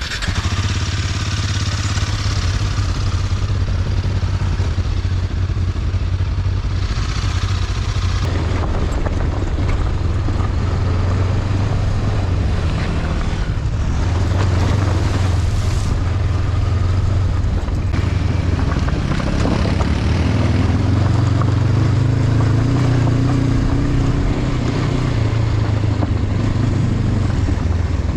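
Honda CB500X's parallel-twin engine running steadily at low revs under load, its pitch rising a little in the second half. Wind noise hisses over it.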